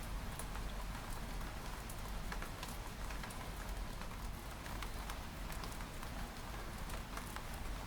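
Steady rain falling on window glass: an even hiss of rain with many scattered, sharp taps of single drops and a low, steady rumble underneath.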